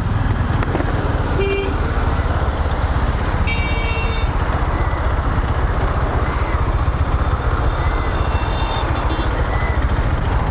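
Steady low rumble of riding a Bajaj Dominar 400 motorcycle in traffic. Vehicle horns honk briefly about one and a half seconds in and again around three and a half seconds in, the second one louder, with a fainter honk near eight and a half seconds.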